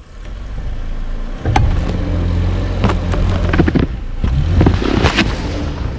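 A vehicle engine running at a low, steady pitch, coming in strongly about one and a half seconds in. Scattered sharp knocks and scrapes sound over it.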